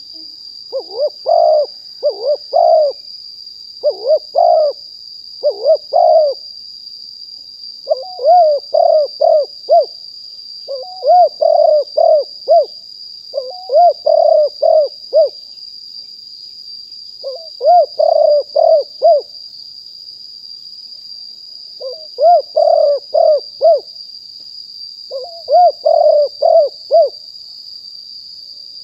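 Spotted dove cooing: about ten phrases, each a quick run of several coo notes, repeated every one to three seconds with short gaps. A steady high-pitched whine runs underneath.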